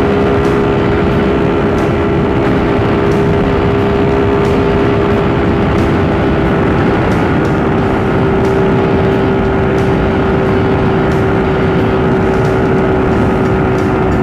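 Suzuki Raider R150 motorcycle engine running at a steady cruising speed with an even, unchanging pitch, over a constant rush of wind and road noise.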